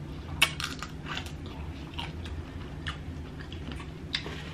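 Close-up mouth sounds of a person biting into and chewing a boiled tiger shrimp: a sharp crunch about half a second in, then wet, clicking chewing, with one more sharp click near the end.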